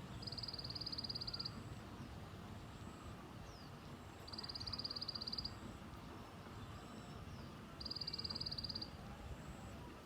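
A small songbird known in Vietnamese as chim sâu gives a rapid, high-pitched chattering trill, the 'tành tạch' call, about a second long, three times.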